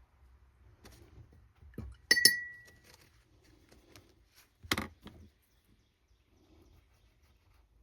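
A sharp clink of glass about two seconds in, ringing briefly at one clear pitch, then a duller knock and rattle a little under five seconds in.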